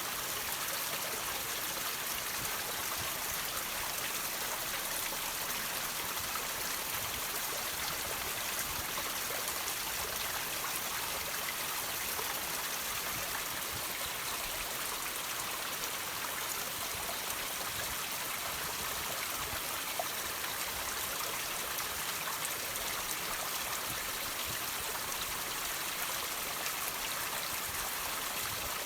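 Water trickling and dripping over rocks in a steady, even splashing hiss, with a slightly louder drip about twenty seconds in.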